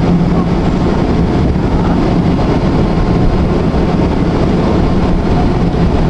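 Tram running along its track: a steady rumble of wheels on rails with a steady low hum.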